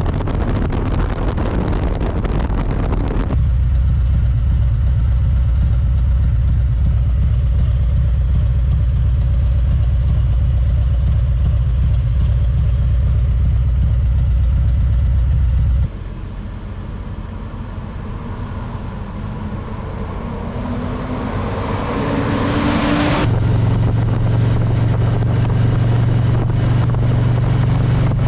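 Harley-Davidson motorcycle V-twin running on the road with wind rush, in several abrupt cuts. In one stretch the engine note rises steadily as the bike accelerates, before a cut back to a steady low drone.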